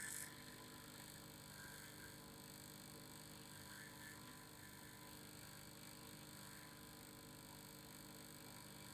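Faint, steady vibrating hum made of several fixed tones, with a brief click right at the start.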